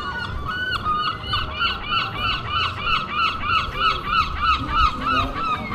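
A bird calling a fast series of short, repeated squawking notes, about four a second, stopping near the end.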